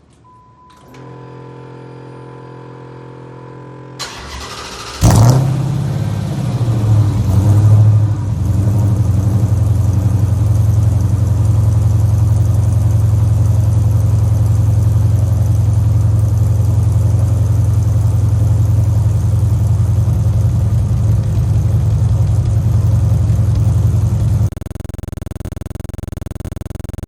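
Dodge Charger engine cold-starting: after a quieter steady hum, it cranks and catches suddenly about five seconds in, flares up in revs, then settles into a loud, steady fast idle. The sound drops and changes character near the end.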